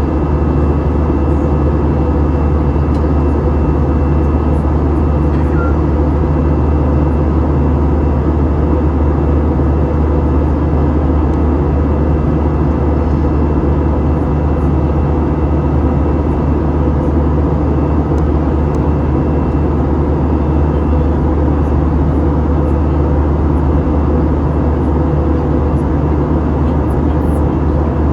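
Steady engine and airflow noise inside the cabin of an Airbus A321 jet airliner: an even rush over a deep, constant drone, with a few faint steady tones on top.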